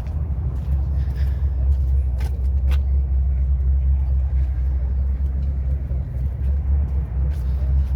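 Steady low rumble, with a couple of faint clicks a little over two seconds in.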